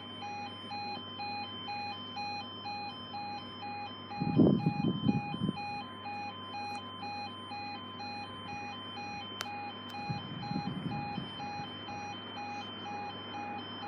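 Level crossing warning alarm sounding a steady, evenly pulsing electronic tone, with two louder low noises about four and ten seconds in.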